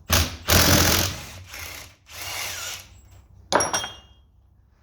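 Three short bursts of a power tool working on the tractor's bolts, then a sharp metallic clank that rings, about three and a half seconds in.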